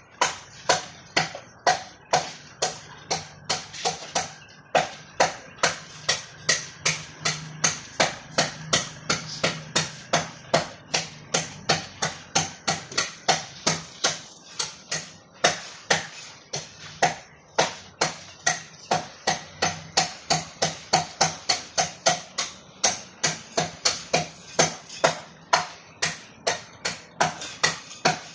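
Hand hammer striking repeatedly in a steady rhythm, about two to three sharp blows a second, each with a brief ring, over a faint low hum.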